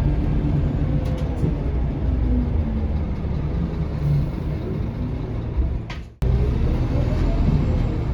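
Scania K230UB bus's five-cylinder diesel engine running, heard from inside the cabin as a steady low rumble whose pitch rises and falls with the bus's speed. The sound cuts out for a moment about six seconds in, then carries on.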